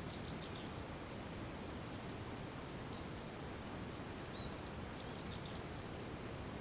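Steady rain falling, with a few sharp drips around the middle. A bird gives short high calls near the start and again about five seconds in.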